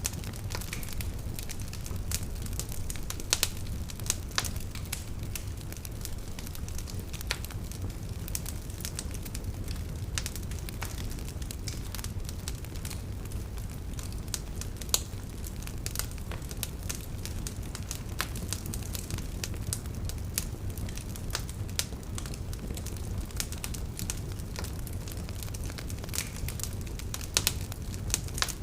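Open fire crackling, with frequent irregular sharp pops, some louder than the rest, over a steady low rumble.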